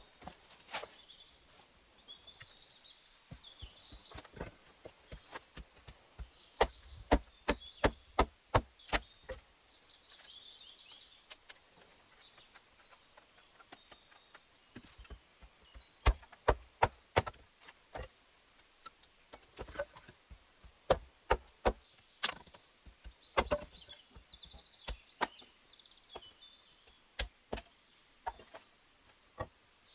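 A hand tool striking wood over and over, in runs of quick sharp knocks, typical of chopping or hewing with an axe or hatchet. Birds chirp faintly in the background.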